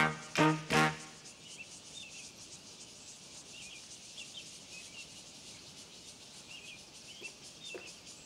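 A comic brass music cue ends about a second in, leaving faint outdoor ambience with scattered short bird chirps and a soft knock near the end.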